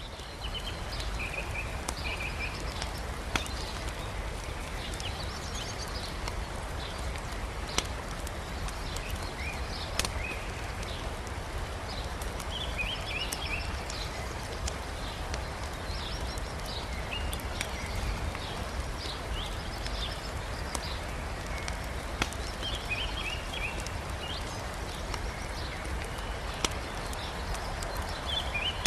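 Wood campfire crackling, with a few sharp log pops several seconds apart, over the steady rush of a river. Small birds chirp in short runs throughout.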